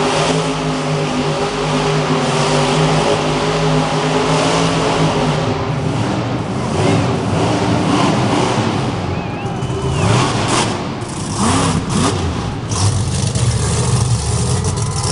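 Monster truck engine running hard and revving up and down. In the second half a few sharp bangs come in quick succession, typical of the truck landing and hitting obstacles.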